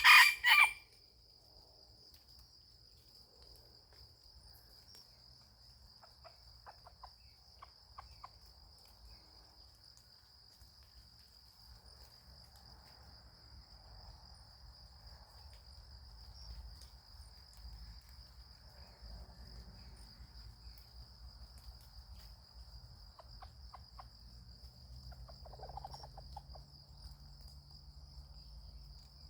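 A rooster crows loudly right at the start and breaks off within the first second. After that an insect trills on one steady high note, with a few faint clicks.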